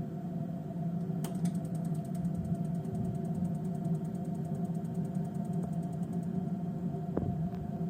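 Double-circuit gas boiler running with a steady hum. About a second in, a rapid train of fine ticks starts, roughly eight a second, and stops after about five seconds; a couple of single clicks follow near the end.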